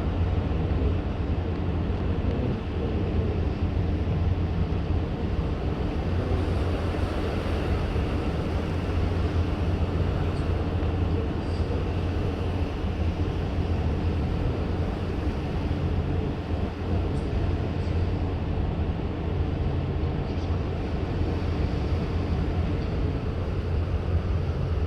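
Steady low rumble on board a ship at sea: the vessel's engines and hull vibration under a haze of wind and water noise.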